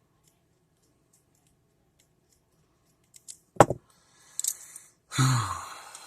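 Faint ticks, then small plastic clicks and one loud sharp snap as a Beyblade string launcher's plastic casing and parts are handled and pried apart, followed by louder handling noise near the end.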